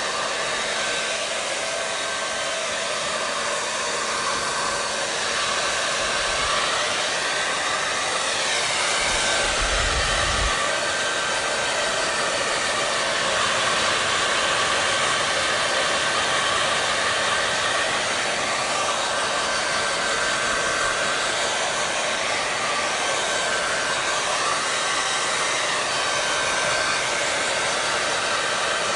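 Electric hair dryer (blow dryer) running steadily: a continuous airy rush with a thin steady whine. The pitch wavers slowly now and then, and there is a brief low thump about ten seconds in.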